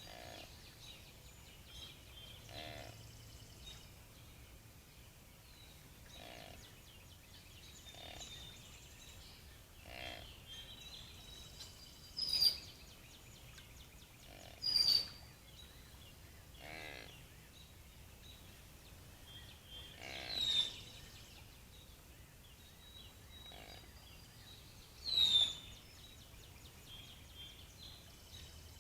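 Deer making short, odd calls: faint ones every couple of seconds, and four louder, sharper ones spread through the second half.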